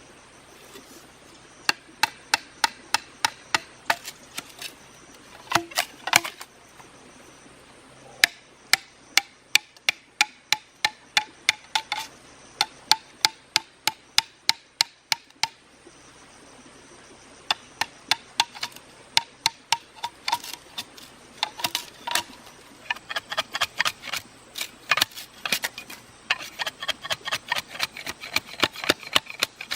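A blade chopping bamboo with rapid, evenly spaced knocks, about three strikes a second. The strikes come in runs of several seconds with brief pauses, and grow denser and lighter near the end.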